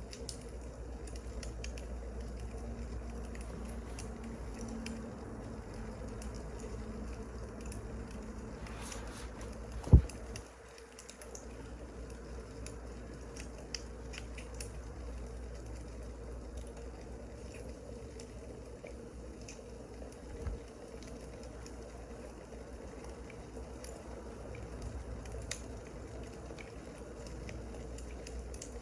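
Crackling wood fire: scattered small pops and snaps over a steady low hum. A single loud knock about ten seconds in, and a softer one about twenty seconds in.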